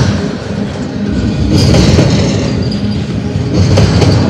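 Double-stack intermodal well cars rolling past: a steady rumble of steel wheels on rail with clickety-clack. It swells about every two seconds as each set of wheels goes by.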